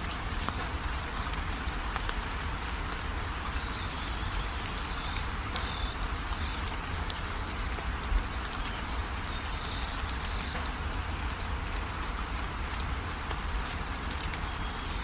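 Steady rain with drops ticking, and birds chirping throughout in a high, wavering twitter. There is a single louder knock about eight seconds in.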